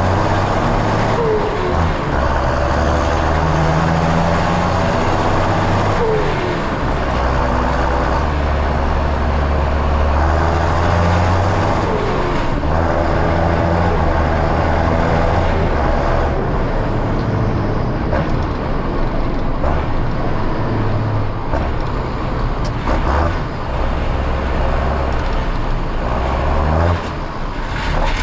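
John Deere tractor diesel engine running, its low note stepping up and down as the load changes. A short falling whine is heard several times.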